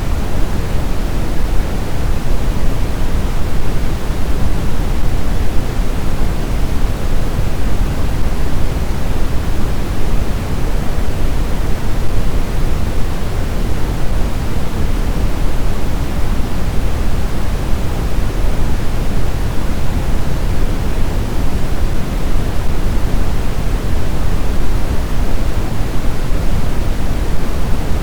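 Snowstorm wind: a loud, steady, even rush with most of its weight in the low end and no distinct gusts or howling tones.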